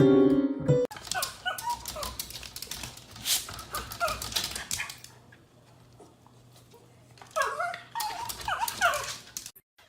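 A dog whimpering in short rising and falling whines, in two bouts with a pause between them, among a rapid run of sharp clicks.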